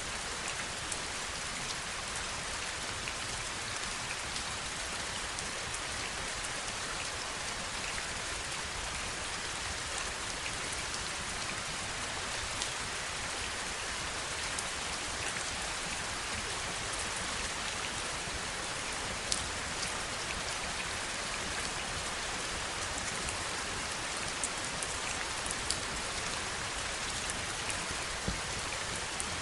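Heavy rain falling steadily, an even hiss with scattered sharper drop strikes standing out here and there.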